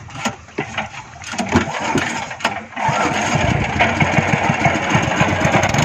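Speedboat engine starting: a few irregular sputters and knocks, then it catches about three seconds in and runs steadily.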